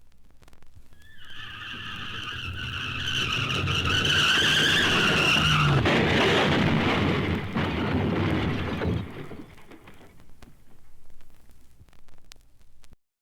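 Tyres squealing in a long car skid, building up over a few seconds, with a rushing, rumbling noise that carries on after the squeal stops and dies away about nine seconds in.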